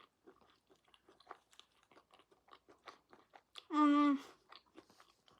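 A person chewing and crunching food close to the microphone, with many small wet clicks. About four seconds in, a short hummed "mm" on one steady note.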